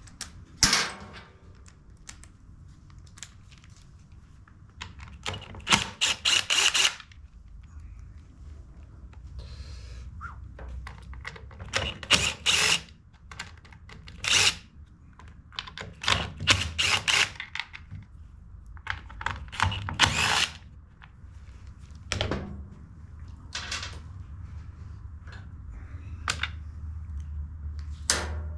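Repeated short bursts of rapid clicking and rattling from hand tools and small parts as the cover and fasteners are taken off an Echo PB-265L backpack blower, over a faint low hum.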